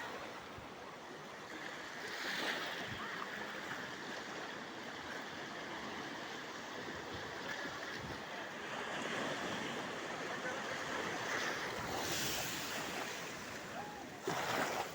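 Sea waves washing onto the shore, a steady rush of surf that swells up a couple of times.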